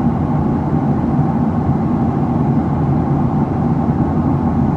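Steady cabin drone of a Boeing 737-700 in flight above 10,000 feet: engine and airflow noise heard inside the passenger cabin, a constant low rumble.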